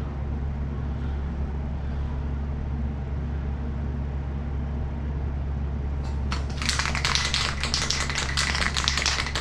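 A steady low hum, then about six seconds in a fast, continuous rattling starts: an aerosol undercoat spray can being shaken, its mixing ball clicking inside.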